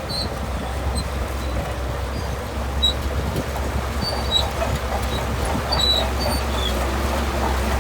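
Shantui crawler bulldozer's diesel engine running with a steady low rumble, with short high squeaks scattered throughout.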